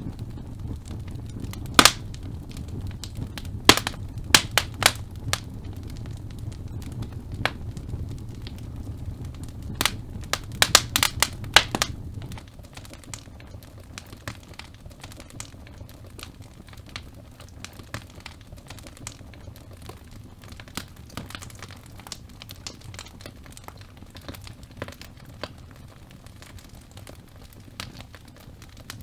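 Wood logs burning in a fireplace: crackling with sharp pops, clustered in the first half, over a low rumble of the flames. About twelve seconds in the rumble drops away and quieter, finer crackling goes on.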